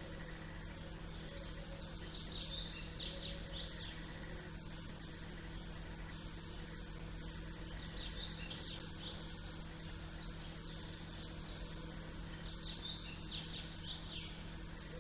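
Small songbirds chirping in three short bursts of quick, high chirps, over a steady low background hum.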